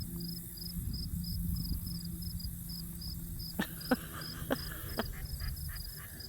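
An insect chirping steadily in high, even pulses about twice a second. Partway through come four sharp clicks, followed by a few fainter ones.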